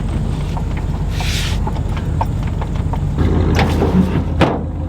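An engine idling steadily. In the second half a few sharp knocks and clanks sound over it, and a brief rushing noise comes a little over a second in.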